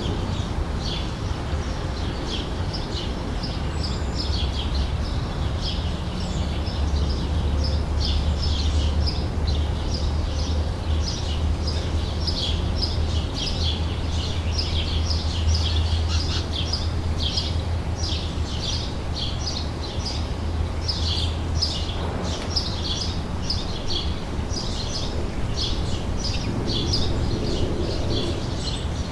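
Summer outdoor ambience: many birds chirping in quick, overlapping short calls, over a steady low rumble.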